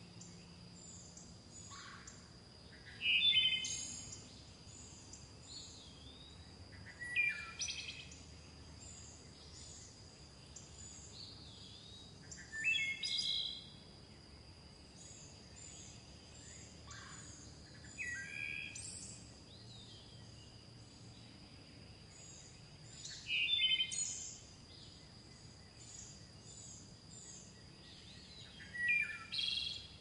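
Bird calls: six loud, short calls spaced about five seconds apart, over a steady background of many small high chirps and a thin, steady high whine.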